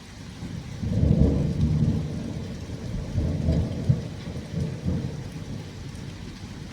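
Thunder rumbling over steady rain. The rumble swells about a second in and rolls on in several surges before easing off.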